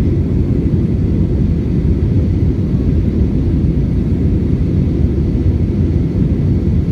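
Steady low rumble of an Airbus A320's engines and airflow heard from inside the passenger cabin.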